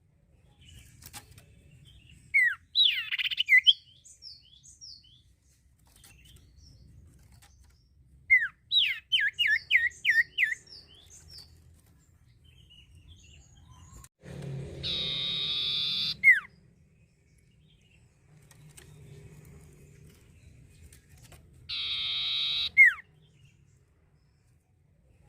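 Common iora (cipoh) singing in separate phrases: sharp falling whistles, a quick run of repeated falling notes, and two longer harsh, buzzy calls, each ending in a sharp slurred whistle.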